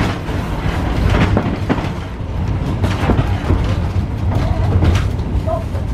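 Ex-Melbourne W2 class tram running along its track: a steady low rumble with irregular knocks of the wheels over rail joints.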